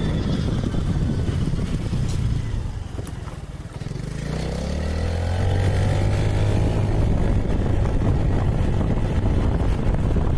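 Vehicle engine running on the move, easing off about three seconds in, then picking up again with a rising pitch and holding steady.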